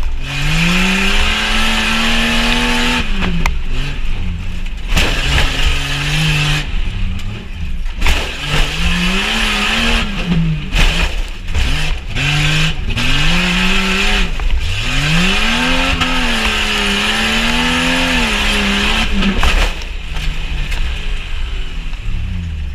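Jeep Cherokee XJ's engine revving hard and easing off several times, its pitch climbing and falling, under a steady rushing hiss.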